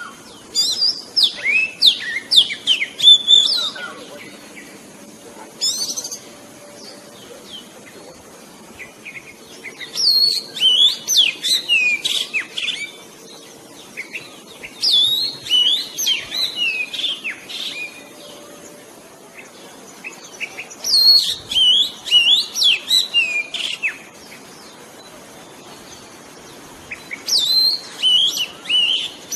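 Oriental magpie-robin singing: bursts of quick, high whistled notes and trills, each phrase lasting two to three seconds, with a pause of a few seconds between phrases.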